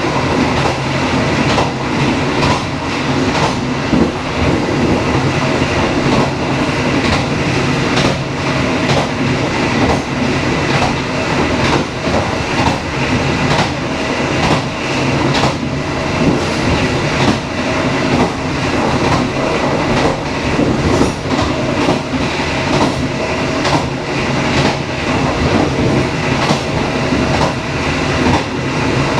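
Dharmawangsa passenger train running along the track: a steady loud rumble and hiss, with frequent sharp clicks of the wheels over rail joints.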